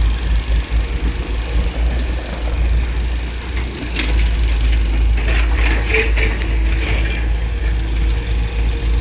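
Tata Hitachi 210 long-reach excavator at work: a steady low rumble from the machine, with a run of metallic clanking and rattling about halfway through.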